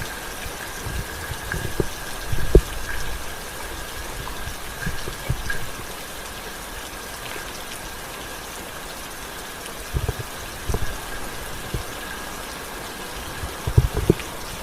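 Steady rain hiss, with scattered dull low thumps and knocks, clustered about two seconds in, around ten seconds and near the end. A faint steady high whine sits over the rain.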